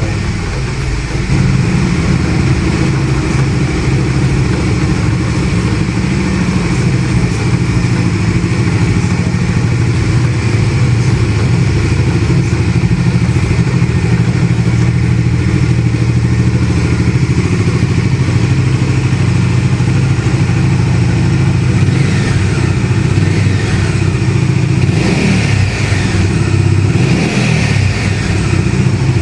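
Bajaj Dominar 250's single-cylinder engine running through its exhaust. It gets louder about a second and a half in and holds steady, with the pitch rising and falling in the last few seconds.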